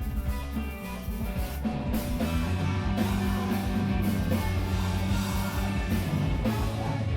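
Live screamo band playing loud rock music with guitars and a drum kit, the full band coming in louder about two seconds in.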